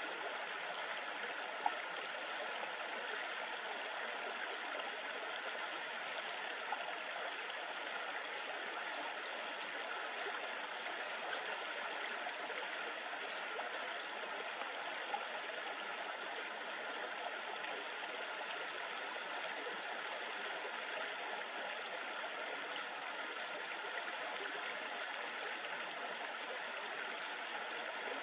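A shallow river babbling steadily over stones, with short high chirps of small birds scattered through the middle stretch.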